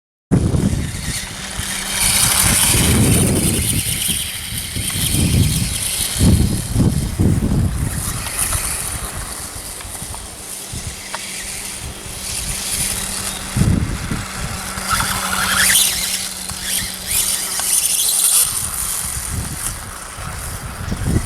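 Radio-controlled electric dirt bike riding: a high motor whine that rises and falls with the throttle, over bursts of low rumble.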